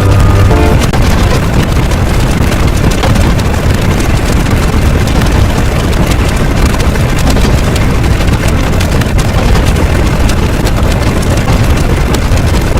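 Loud, heavily distorted, engine-like rumbling noise, steady throughout and thick with crackle.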